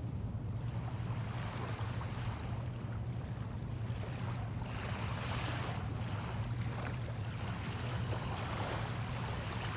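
Small waves washing on the bay shore, the hiss swelling and easing every few seconds, over a steady low hum.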